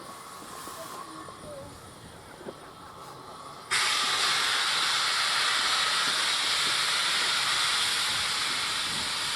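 Steam locomotive venting steam: a loud, steady hiss cuts in suddenly about four seconds in and slowly eases off.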